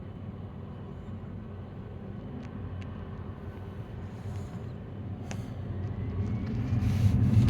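Steady low engine rumble that grows louder over the last two seconds.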